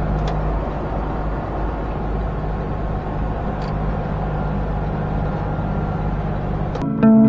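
Steady engine and road noise inside a semi-truck's cab while driving. Near the end it cuts off suddenly to guitar music.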